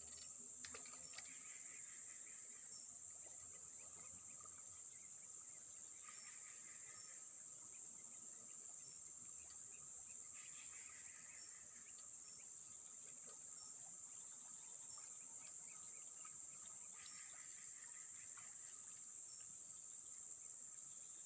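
Faint, steady, high-pitched chorus of insects such as crickets. A second, lower chirring call comes and goes every few seconds.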